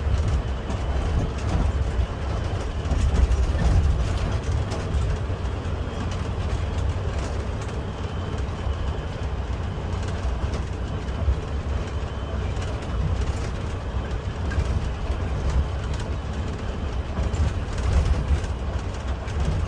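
Garbage truck driving, heard from inside the cab: a steady low engine and road rumble with rattling and clatter throughout.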